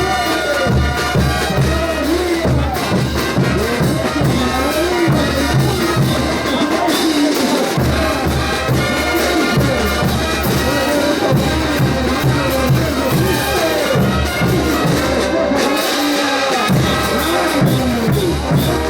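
Bolivian brass band playing music for the ch'uta dance: a brass melody over a steady, pounding drum beat.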